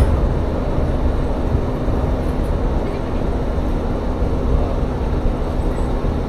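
Tsugaru Railway diesel railcar heard from inside the carriage: a steady low engine and running hum with no distinct knocks or changes.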